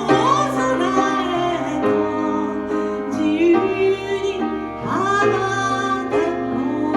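A woman singing a slow ballad live with instrumental accompaniment, her voice wavering on long held notes.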